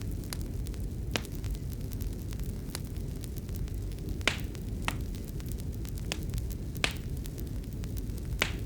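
Fireplace fire burning with a steady low rush, crackling and popping at irregular moments, with several sharper pops among many faint ticks.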